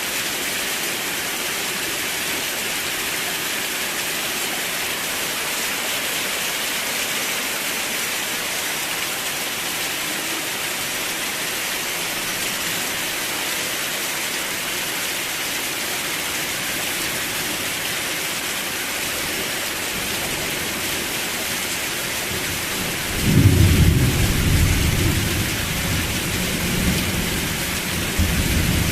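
Steady heavy rain hissing on a surface, with a low rumble of thunder breaking in suddenly near the end and slowly rolling away.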